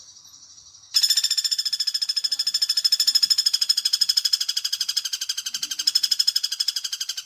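Common flameback woodpecker call, the bird-lure recording: a long, rapid, even rattle of high notes that starts loud about a second in and runs on, with a fainter trill before it.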